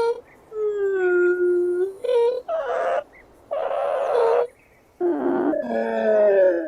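Turtle or tortoise calling: drawn-out whining moans that slide slightly in pitch, broken by a few short calls and two breathy hisses near the middle.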